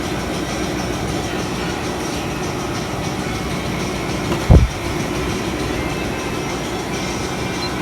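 Portable air conditioner running, a steady hum of its fan and compressor blowing cold air, with one short thump about four and a half seconds in.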